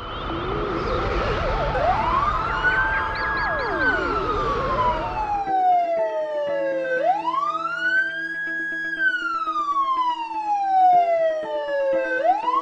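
Cartoon siren sound effect: a wailing tone that climbs quickly, holds, then slides slowly down, repeating about every five seconds over background music. For the first five and a half seconds a noisy whooshing burst with warbling sweeps plays over it, then cuts off.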